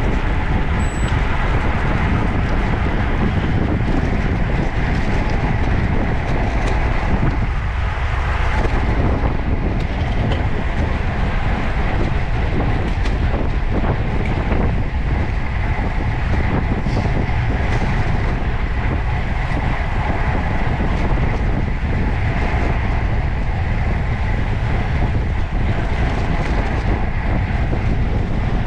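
Steady road and wind noise from a road bicycle riding at speed, with wind rushing over the microphone.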